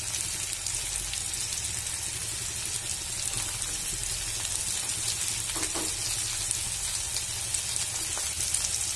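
Onions and green chillies frying in hot oil in a wok, a steady sizzling hiss with fine crackles. The oil is freshly seasoned with salt and turmeric.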